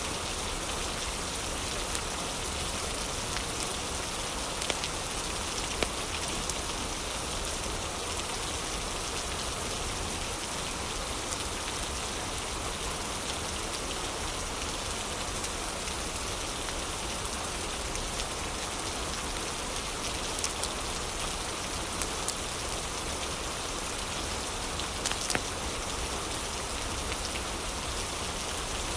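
Steady heavy rain, an even hiss of falling water, with a few sharp crackles and pops from a wood fire scattered through it.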